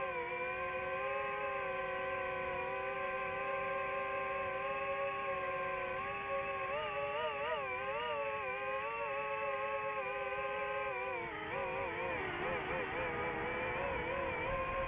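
A riverboat's whistle or horn blowing one long continuous blast, a chord of several steady tones. The pitch wavers twice, about halfway through and again near the end, then holds steady.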